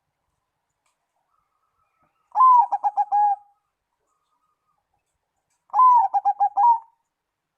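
Zebra dove (perkutut) cooing: two song phrases a few seconds apart, each a drawn-out opening note followed by a quick run of about five short notes.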